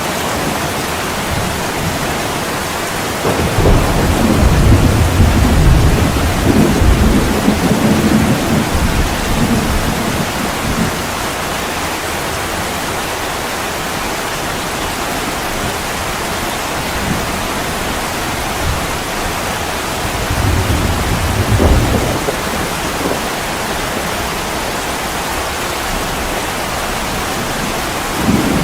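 Heavy rain pouring steadily, with low rolls of thunder: a long rumble that starts about three seconds in and lasts several seconds, and a shorter one about two-thirds of the way through.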